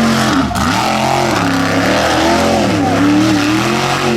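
Mega truck's big engine running hard, its revs swinging up and down repeatedly as the throttle is worked.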